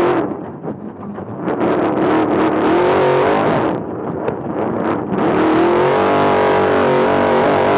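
Off-road trophy truck's race engine revving hard. The revs drop off about a second in and again around four seconds, then climb and hold high, with sharp knocks in the first half.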